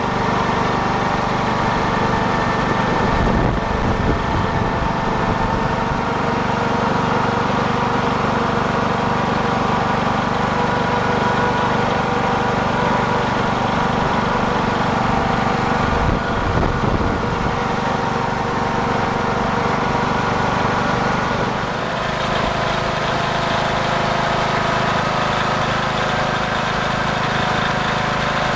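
Small engine of a trackless ride-on party train running steadily as the train drives along, with an even hum that eases off slightly about 22 seconds in.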